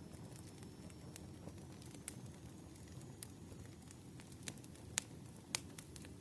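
Wood fire crackling: scattered sharp pops and snaps over a low, steady rumble of burning logs, with the two loudest pops about five seconds in.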